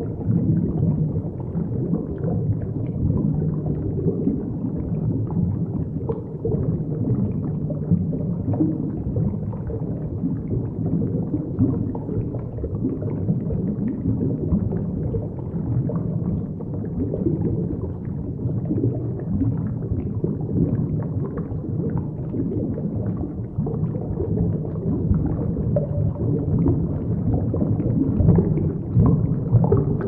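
Underwater ambience: a steady, muffled low rumble.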